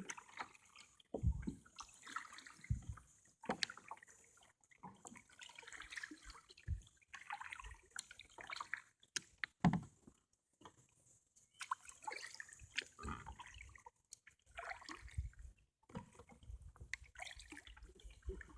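Water splashing and dripping around a kayak in irregular bursts, with a few sharp clicks and several low knocks.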